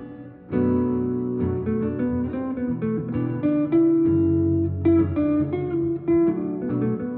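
Instrumental break in a song: a guitar playing plucked chords and single notes, with no singing.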